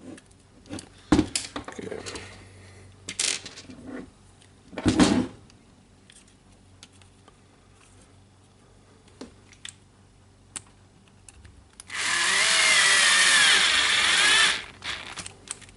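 A few handling knocks and clicks of parts, then near the end a small power driver runs for about two and a half seconds with a wavering whine, driving a screw while brush holders are fitted into a rotary hammer housing.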